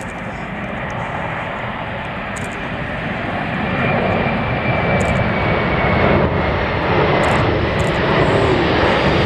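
Large airplane's engines, a steady rushing drone with a faint high whine, growing louder about a third of the way in as it comes closer overhead.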